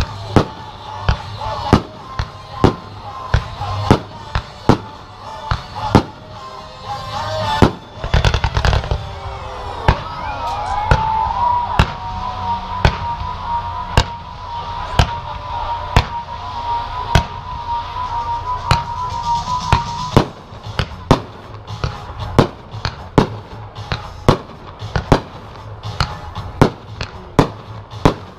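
Aerial fireworks going off in quick succession, sharp bangs about one to two a second, with a denser, louder barrage in the middle, over music playing as the show's soundtrack.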